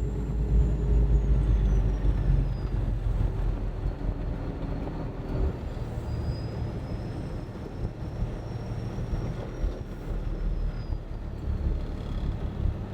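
Semi-truck driving down the road, heard from inside the cab: a steady deep engine and road noise, with a faint high whine that slides down and back up.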